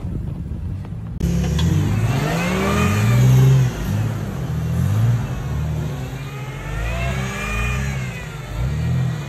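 Jeep's engine revving up and down in several surges as it drives out through deep snow, the pitch climbing and dropping again and again. The sound cuts in abruptly about a second in.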